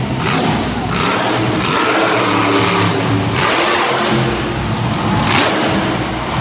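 Monster truck's supercharged V8 engine revving loudly, the pitch climbing and dropping, over dense noise.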